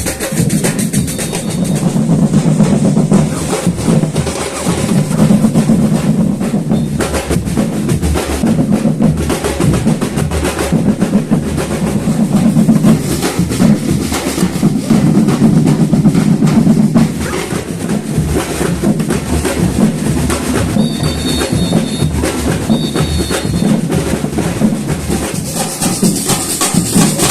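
Batucada samba drum ensemble playing a continuous rhythm, with deep bass drums and snare drums.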